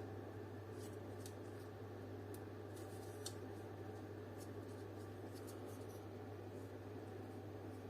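Faint, scattered light clicks and taps of a plastic car dome light housing being handled and turned over, about a dozen over the first six seconds, over a steady low hum.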